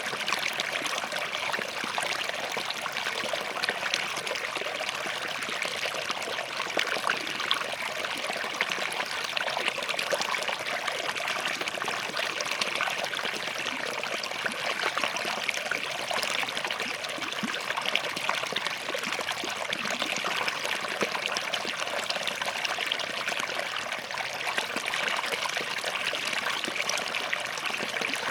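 Forest stream running steadily over and between rocks, a continuous trickling and babbling.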